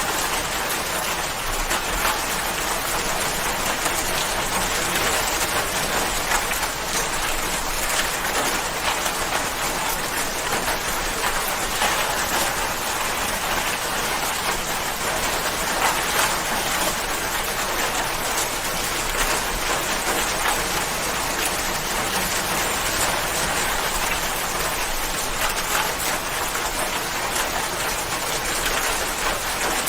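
Steady rain falling, a constant hiss of many drops striking a surface, with fine individual drop ticks throughout.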